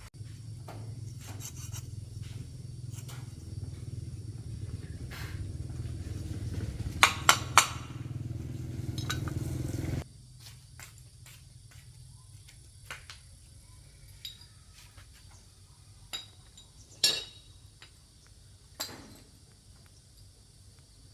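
A motor running with a low hum whose pitch and loudness rise slowly, stopping abruptly about halfway through. Sharp metallic clinks of tools follow at scattered moments.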